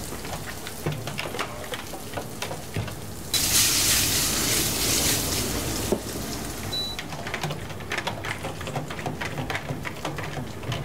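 Diced guanciale frying in a pan, sizzling with scattered crackles and pops. About three seconds in, a much louder, hissing sizzle starts suddenly, lasts nearly three seconds and then cuts off.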